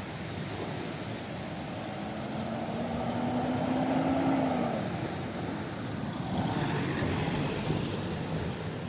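A motor vehicle passing close by, its engine tone rising slightly and then dropping as it goes past, loudest about halfway through. A second, noisier pass follows, with a thin high whine rising near the end.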